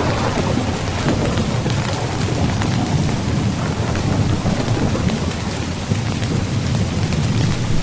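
Steady rain falling on a tent, with a deep rumble of thunder underneath; a louder swell of the rumble fades away over the first couple of seconds.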